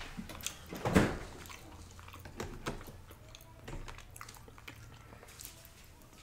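Close-miked chewing and mouth sounds of a person eating from a fork: a scatter of short, wet clicks and smacks, with a louder one about a second in.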